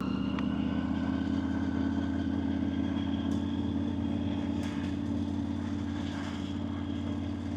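Motorcycle engine running steadily while riding along an open road, with a steady hum and a haze of wind and road noise over it.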